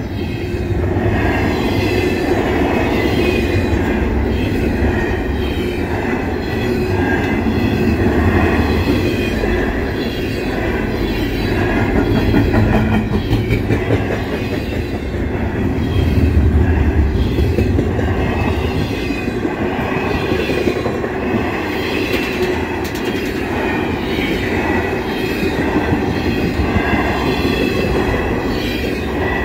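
Double-stack intermodal freight train's well cars rolling past: a continuous, loud rumble and rattle of wheels on the rails, swelling a little about halfway through.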